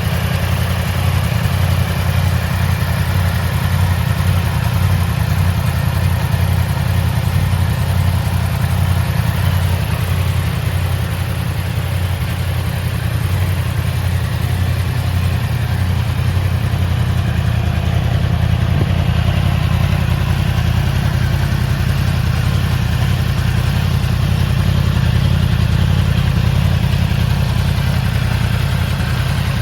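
Yamaha YZF-R1's inline-four engine idling steadily, with no revving.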